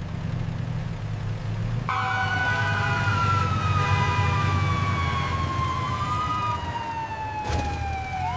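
Emergency vehicle sirens come in about two seconds in over a low engine hum. Several siren tones glide slowly lower, and one rises again near the end.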